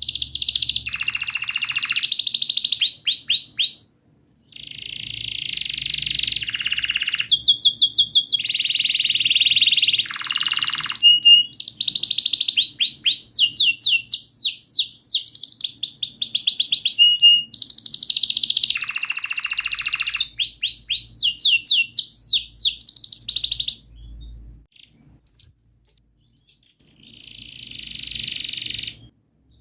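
Domestic canary singing a long song of fast rolling trills and repeated chirps, pausing briefly about four seconds in and again near the end.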